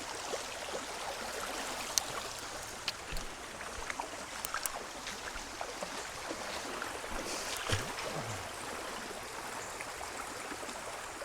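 Running water of a stream flowing steadily, with a few faint clicks and a brief low sound a little before eight seconds in.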